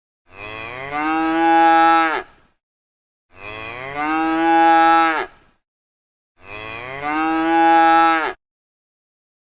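A cow mooing: the same moo played three times, each call about two seconds long, growing louder and then cutting off abruptly.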